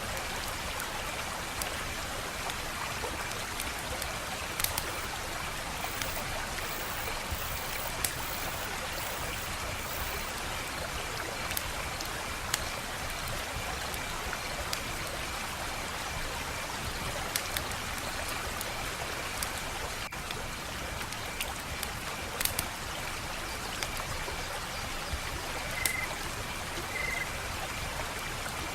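Wood fire burning with a steady crackling hiss and sharp pops at irregular intervals, a dozen or so over the span.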